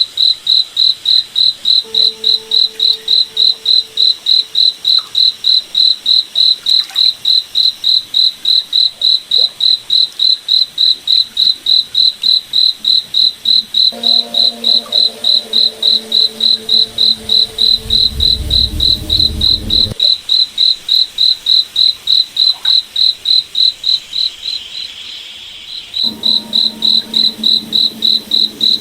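A cricket chirping in a steady, even rhythm of about three high chirps a second, dipping briefly about three quarters of the way through. A faint low hum comes and goes beneath it.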